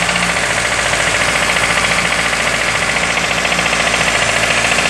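Renault Clio 1.0 16-valve engine running with a loud, fast, steady knocking. The mechanic suspects a head gasket fitted the wrong way round that is starving the cylinder head of oil, though he notes the noise is easily mistaken for connecting-rod knock.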